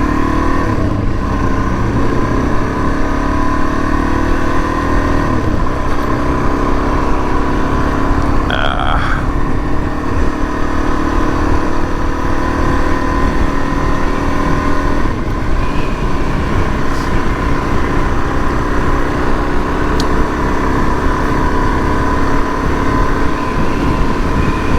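2019 Suzuki DR-Z400S's single-cylinder four-stroke engine running at steady riding speed, with a shift in pitch near the start. Wind rumbles on the bike-mounted microphone throughout.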